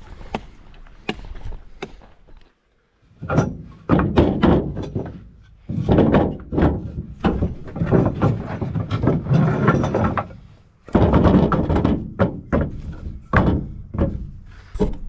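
Tarp shelter flapping and snapping in gusts of wind, with wind rumbling on the microphone in loud surges from about three seconds in. Before that come sharp separate crackles.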